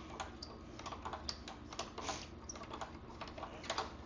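Irregular light clicks and taps, several a second, as a heat-stuck part of a 1974 Yamaha MX100's rear brake hub is worked back and forth and starts to come free.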